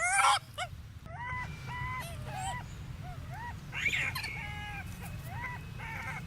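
Monkey giving a run of short, high squeaky calls, each rising and falling in pitch, about two a second, loudest at the start.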